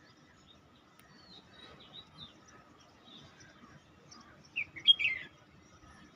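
Birds chirping: scattered short chirps and twitters, with a louder run of quick chirps about four and a half seconds in.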